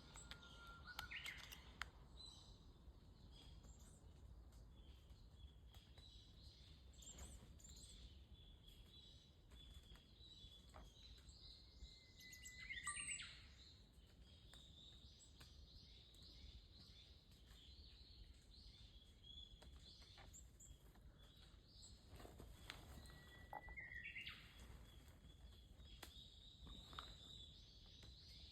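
Varied tits calling softly back and forth: faint, scattered short chirps now and then, a few with a quick upward slide, the clearest about a second in, midway and near the end.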